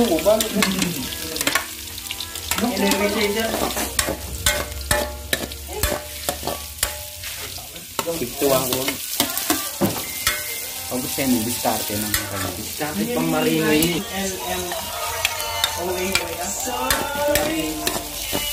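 Garlic, onions and chilies frying in oil in a steel wok, with a sizzle, while a metal spatula stirs and scrapes them, clicking repeatedly against the pan.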